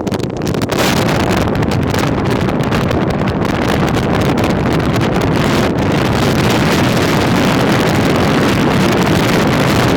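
Strong wind buffeting the microphone: a loud, steady rushing roar that flutters rapidly in level.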